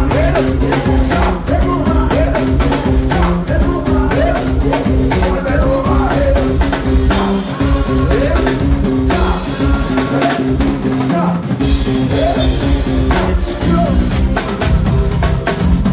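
A live band playing with a steady beat, led by the drum kit with kick drum and rimshots over sustained bass notes.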